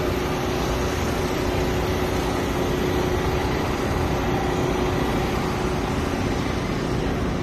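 Steady mechanical drone with a constant low hum that holds one pitch, unbroken and even in level.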